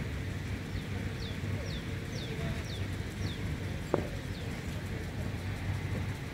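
A bird calling a run of about eight short whistles, each falling in pitch, roughly two a second, over a steady low rumble. About four seconds in, a single sharp knock of a cricket bat meeting the ball.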